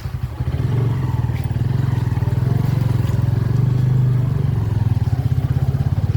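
Motorcycle engine running under way, its pulsing exhaust note picking up about half a second in and then holding steady at riding speed.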